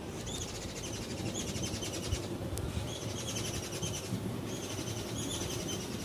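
A small bird calling in several short, fast trilling phrases, each under a second long, over a steady low rumble.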